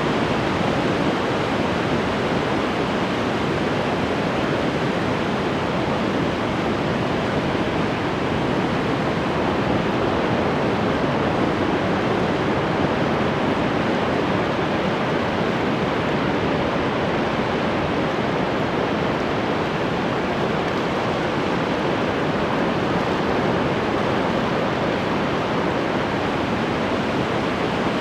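Ocean surf washing continuously, a steady, even roar with no single wave break standing out.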